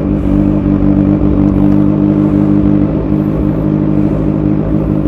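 Kawasaki Z1000 Sugomi's inline-four engine idling steadily at an even pitch through an aftermarket Austin Racing twin exhaust.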